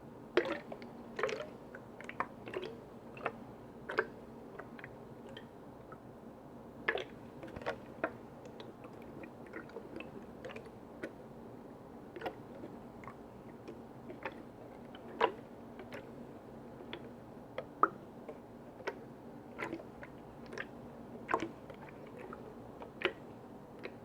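Close-miked taps and clicks on lids and containers, irregular and unhurried, a few louder strikes ringing briefly.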